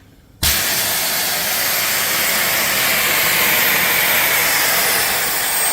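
Steam boiler's pop-off safety valve lifting suddenly about half a second in, then venting steam in a loud, steady hiss: the boiler has reached its relief pressure of about 92 psi.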